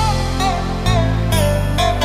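Dayak sape music: a plucked lute playing a run of short notes, several bent in pitch, over a steady low bass accompaniment.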